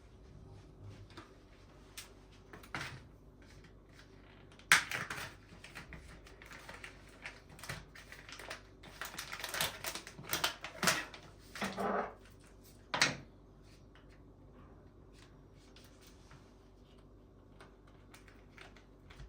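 Scattered small clicks, knocks and rustles of objects being handled. There is a sharp knock about five seconds in and a busier stretch of clatter and rustling from about nine to thirteen seconds.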